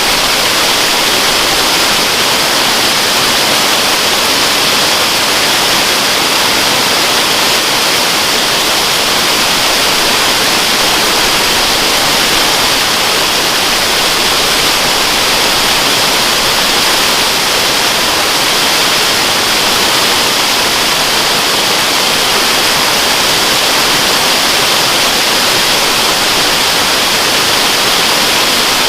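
Waterfall: a steady, loud rush of falling water, an even hiss without changes, strongest in the higher range.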